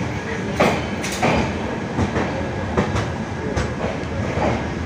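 Passenger train running on rails with a steady rumble and irregular clacks of the wheels over the rail joints, heard from on board.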